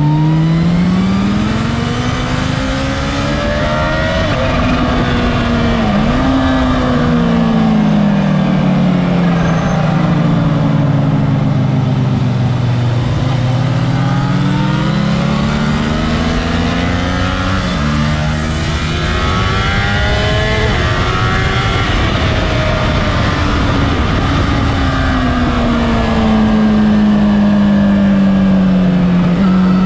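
Sport motorcycle engine recorded onboard during a track lap, its note climbing and falling as the rider accelerates, shifts gear and slows for corners, over steady wind rush. The pitch dips sharply about six seconds in and drops suddenly about eighteen seconds in.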